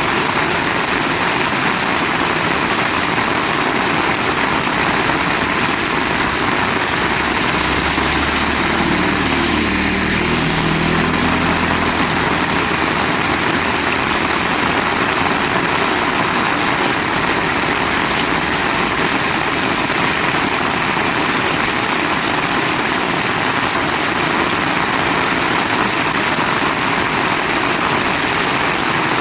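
Heavy rain falling steadily, a loud even hiss. About eight seconds in, a low engine hum with shifting pitch rises briefly under the rain and fades out.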